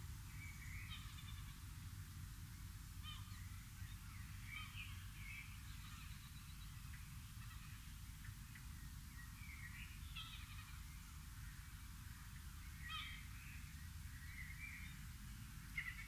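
Wild birds calling: short calls come every second or two, over a low steady rumble.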